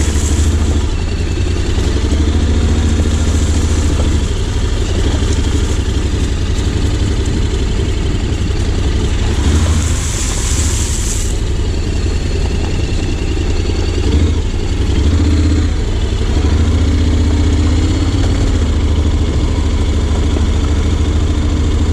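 Honda X-ADV 750's parallel-twin engine running steadily while riding, its pitch wavering a little with the throttle, with a rush of hiss about ten seconds in.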